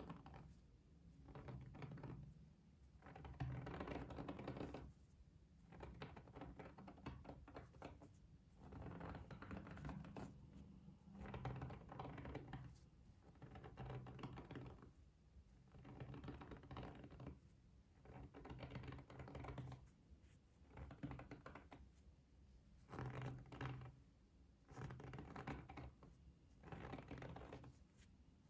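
Close-miked ASMR trigger sounds: quick, light clicking and tapping in bursts of one to two seconds, about a dozen of them with short pauses in between.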